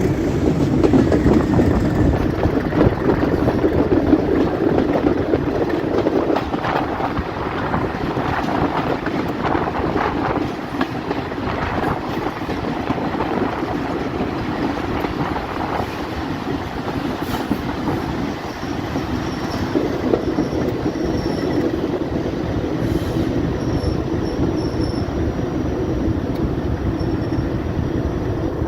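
Diesel-hauled heritage train running along the line: a steady rumble of coaches and wheels on the track, with clattering over the rails and faint high wheel squeal in the second half.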